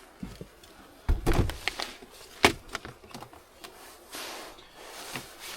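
Camping cooking gear being handled: a dull thud about a second in, a few sharp clicks and knocks, and a brief rustle near four seconds.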